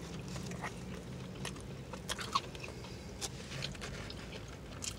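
Someone chewing a mouthful of barbecue cheeseburger close to the microphone: scattered soft mouth clicks and light crunching, over a faint steady low hum.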